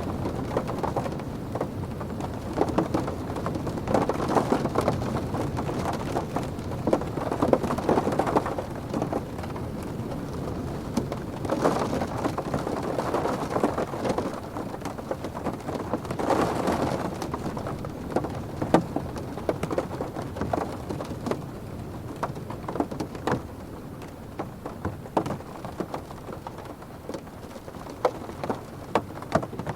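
Rain drumming on a car's roof and windows, heard from inside the cabin, as a steady patter with many sharp drop taps. The rain swells louder in gusts every few seconds during the first half, then eases a little.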